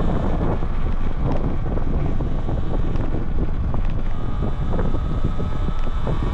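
Wind buffeting the microphone of a camera on the handlebars of a Talaria Sting R MX4 electric dirt bike, a loud steady rumble and rush. A faint steady whine, likely from the bike's electric motor, and a few small rattles and clicks sit under it.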